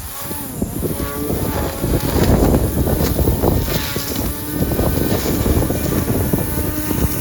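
Lawn mower engine running.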